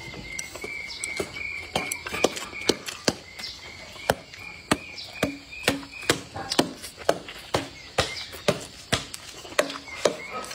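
Close-miked eating sounds: wet chewing clicks and lip smacks a few times a second as a person eats fried rice and blistered green peppers, with chopsticks scraping and tapping a ceramic bowl near the end. A steady high tone runs in the background through about the first half.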